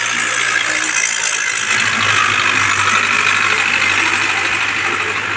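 Belarus tractor's diesel engine running steadily, with a steady high rushing noise over it.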